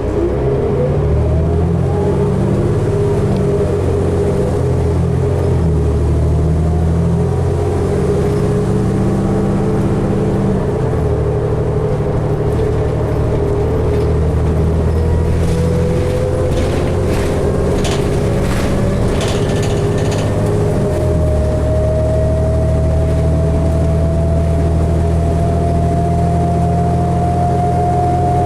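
On board a 2012 New Flyer D60LFR articulated diesel bus under way: the engine runs with its pitch stepping several times as the transmission shifts, and a whine rises steadily through the second half as the bus picks up speed. A few brief rattles about halfway through.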